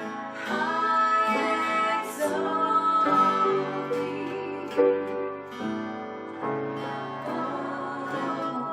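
Acoustic guitar playing a worship song, with a voice singing over it.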